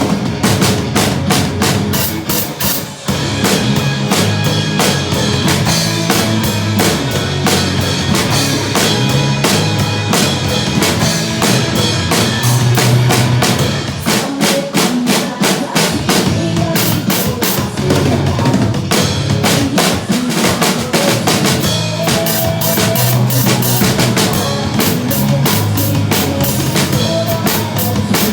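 Drum kit played along to a backing track, a steady beat on bass drum and snare throughout, with a brief drop in level about three seconds in.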